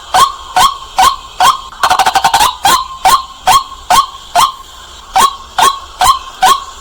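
White-breasted waterhen calling: a loud, sharp 'kwak' note repeated about twice a second, with a quick run of rapid notes about two seconds in.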